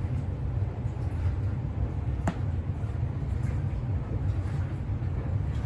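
Steady low rumble of a house furnace blower running with the central air conditioning on. A single sharp click comes a little over two seconds in.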